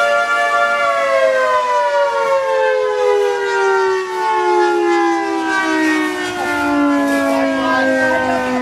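Outdoor civil-defense tornado siren sounding a tornado warning: a steady wail that, about a second in, begins falling slowly and evenly in pitch.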